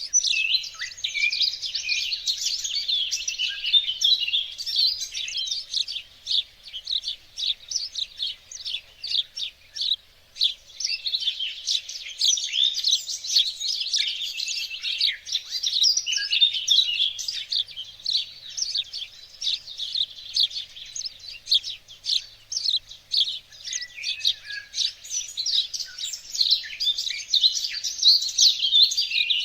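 Several songbirds singing and chirping at once, a dense, continuous chorus of quick high chirps and trills, thinning briefly about a third of the way in.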